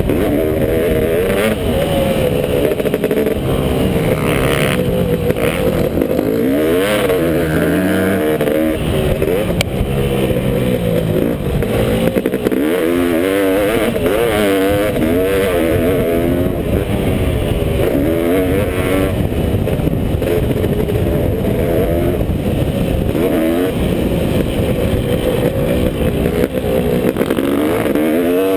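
Honda CR500 two-stroke single-cylinder motocross engine being ridden hard, its pitch rising and falling again and again as the throttle is opened and shut.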